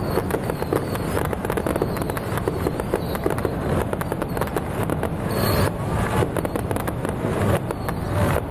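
Fireworks going off without a break, a dense run of rapid bangs and crackles.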